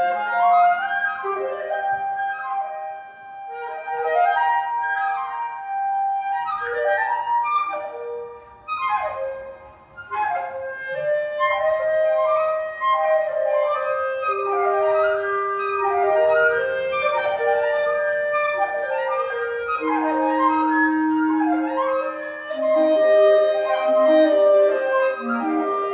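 Woodwind trio of flute, C clarinet and B-flat clarinet playing fast rising and falling runs that pass between the instruments, with a few longer held lower notes.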